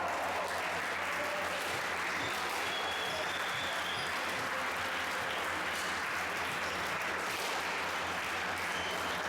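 Spectators clapping steadily.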